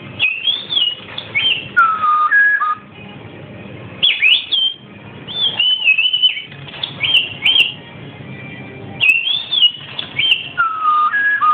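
A pet talking bird whistling a short tune of clear, sliding notes, repeating the same phrase three times.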